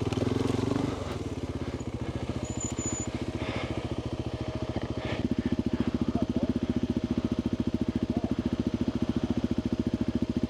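Adventure motorcycle engine idling with an even, rapid beat. It drops in level about a second in and grows louder again around halfway.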